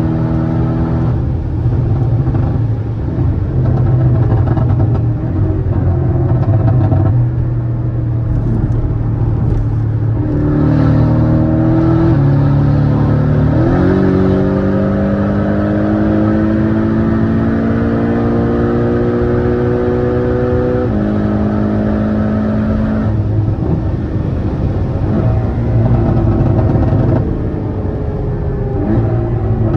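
Porsche 718 Cayman with a Stage 2 remap and stainless exhaust, driving under power: the engine note climbs steadily in a long pull about halfway through, drops sharply on an upshift, then settles to a steady run.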